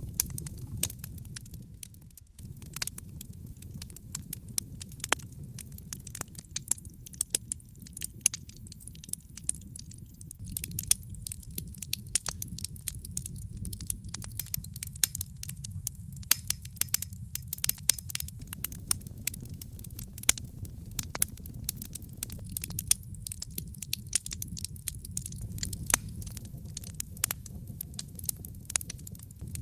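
Wood fire crackling in a fireplace: many sharp, irregular pops and snaps over a low, steady rumble of flame. The crackling grows busier about a third of the way in.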